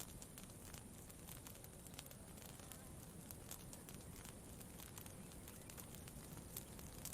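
Campfire crackling: many small, irregular pops over a faint, steady low rustle.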